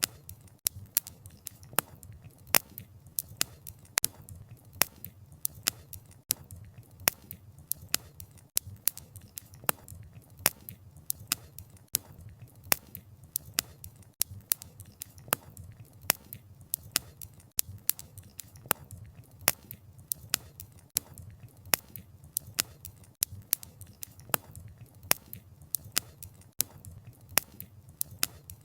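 Wood fire crackling, with irregular sharp pops and snaps from the burning wood, several a second, over a low steady rush of the flames.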